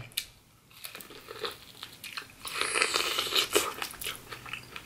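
Close-miked crunching and chewing of corn on the cob coated in crushed Hot Cheetos, with a run of louder crunchy bites about halfway through.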